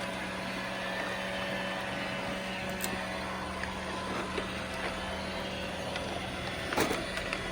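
Roomba robot vacuum running with a steady motor whir and hum. There is a short click about three seconds in and a louder sharp knock near the end. Its brush roll is clogged with rocks, and the owner thinks it is not spinning.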